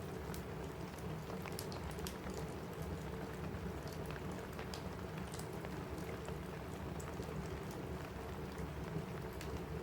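Steady rain on a cabin roof mixed with a crackling wood fire: an even hiss of rain with scattered sharp pops and snaps from the fireplace.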